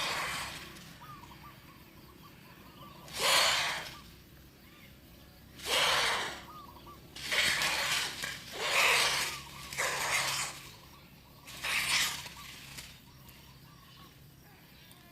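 Young birds making harsh, rasping hissing calls in about eight separate bursts, each under a second long, with short pauses between them.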